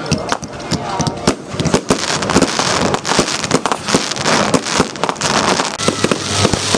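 Fireworks going off in rapid succession: dense cracking and popping bangs over a steady hiss, a busy finale-like barrage.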